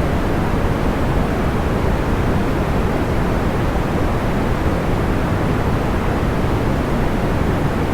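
Steady, deep white-noise track: an even hiss weighted toward the low end, with no crackles or pops standing out.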